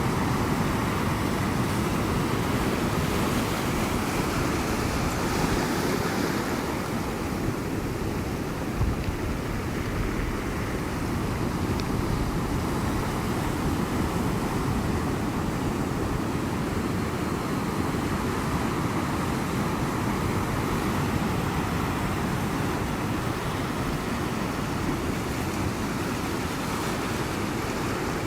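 Ocean surf: a steady wash of breaking waves that swells and eases slowly, with one brief louder surge about nine seconds in.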